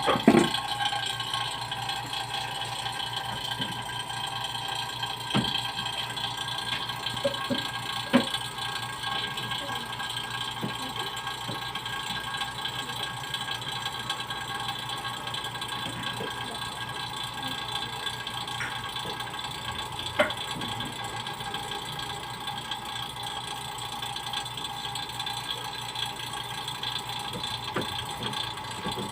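A small motor running steadily with an even hum, with a few light clicks and taps over it.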